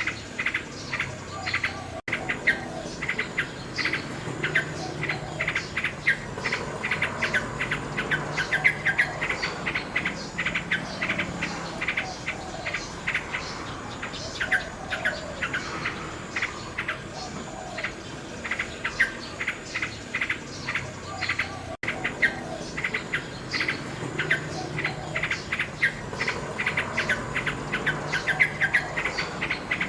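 Common nightingale singing, with rapid runs of short repeated chirps and phrases, over a steady high trill of crickets. The sound cuts out for an instant twice.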